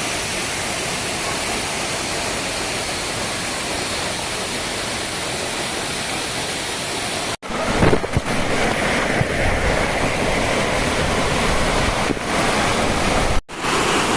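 Waterfall rushing: a steady, loud hiss of falling water. It cuts out briefly twice, and after the first break it is louder, with a low rumble.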